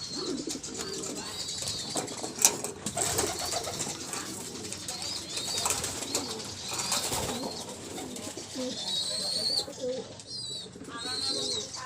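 Several birds calling: repeated short high chirps that rise and fall, over lower, softer calls.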